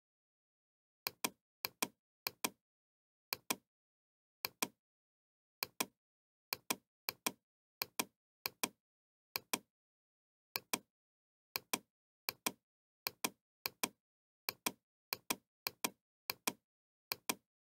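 Sharp double clicks or light knocks, about twenty pairs at uneven intervals of roughly half a second to a second.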